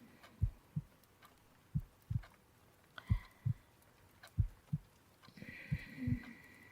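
Slow heartbeat, steady lub-dub pairs of soft low thumps about every 1.3 seconds, as if heard with an ear on someone's chest.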